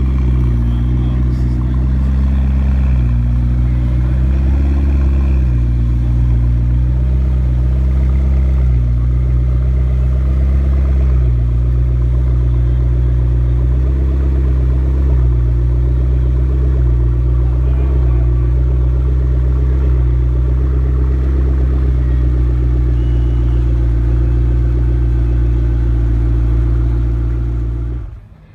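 A car engine running steadily with a deep low rumble, then fading out near the end.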